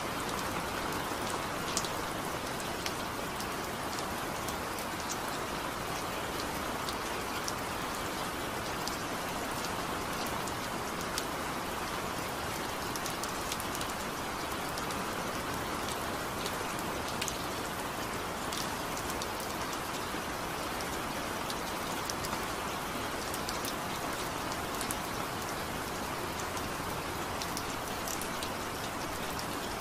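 Steady rainfall, an even hiss with scattered single drops ticking sharply throughout.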